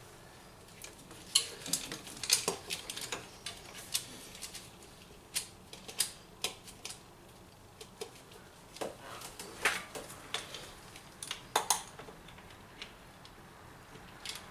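Chain-strap wrench clinking and rattling in irregular sharp metallic clicks as its chain is fitted around an oil filter and worked to loosen it.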